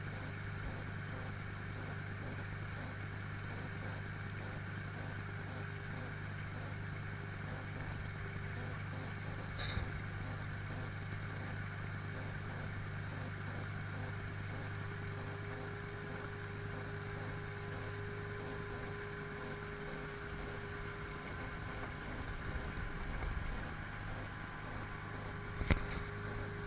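Motorboat engine running steadily while under way, an even low hum with no change in speed. A sharp click comes near the end.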